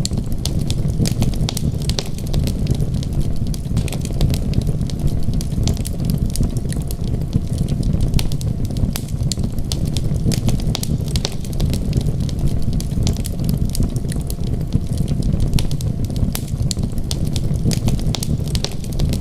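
Wood fire crackling, with many quick irregular pops and snaps over a steady low rumble.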